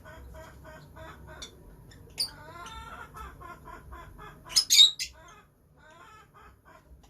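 Lovebirds chattering in quick, repeated chirps, with a sharp high call about two seconds in and a cluster of loud, shrill squawks a little before the five-second mark.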